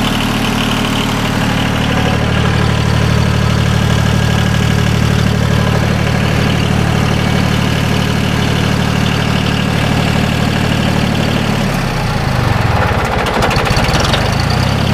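A 1981 John Deere 850 tractor's three-cylinder Yanmar diesel engine idling steadily. About twelve seconds in, its note changes and turns uneven.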